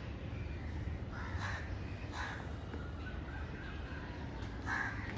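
Crows cawing, about three separate calls spread over a few seconds, over a steady low rumble.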